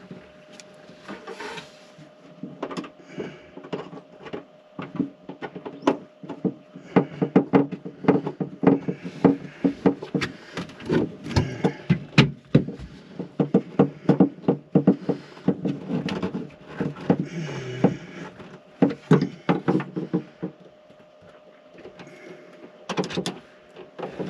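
Irregular knocks, clicks and clanks of hands and tools working a battery and its bolts into place in a cramped RV battery compartment, with a faint steady hum underneath.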